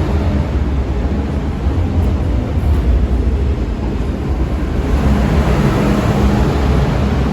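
MTR M-train (Metro-Cammell electric multiple unit) running through a station without stopping: a steady loud low rumble, with a hum coming in about five seconds in.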